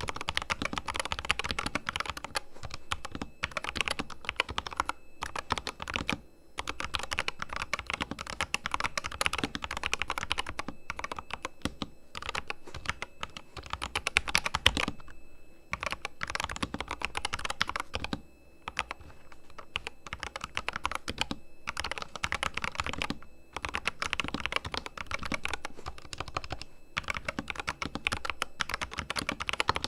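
Corsair K100 RGB mechanical keyboard with fully lubed switches, typed on quickly in runs of dense keystrokes broken every few seconds by short pauses.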